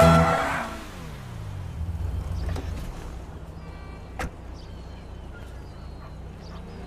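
Animated car engine sound effect: the engine note falls in pitch over about two seconds, then settles into a steady low hum, with a single sharp click about four seconds in.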